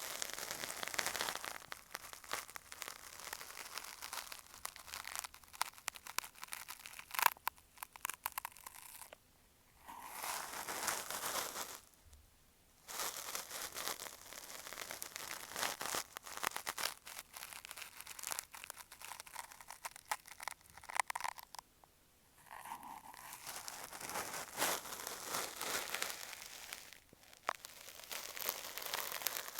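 Cotton swab rubbing and scratching against an earphone microphone, a close, crackly scraping in strokes. It pauses briefly about nine, twelve and twenty-two seconds in.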